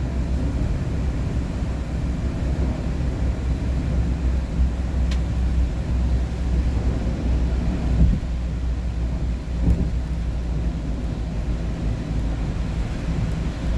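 Steady low rumble of engine and tyre noise heard inside a moving vehicle, with two brief thumps about eight and ten seconds in.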